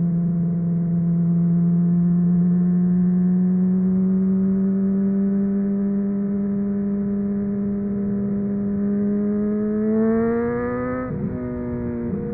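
Honda CBR600RR inline-four engine through a MIVV aftermarket exhaust, pulling in one gear with its pitch rising slowly and steadily. Near the end it revs up more quickly and upshifts twice, each shift a brief dip in pitch.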